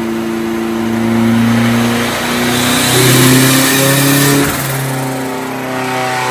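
Turbocharged engine run under load on a chassis dynamometer, its pitch rising in several steps and holding between them, then falling away sharply near the end.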